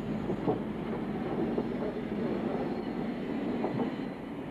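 Steam train running along the track: a steady noise with a little faint clatter.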